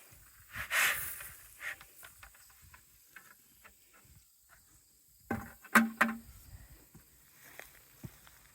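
A few scrapes and small clicks, then two sharp knocks about five and six seconds in, over a faint steady high hum of insects.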